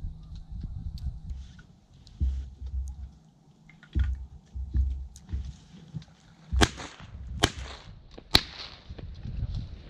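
Three shotgun shots in quick succession, a little under a second apart, over low rumbling from wind buffeting the microphone.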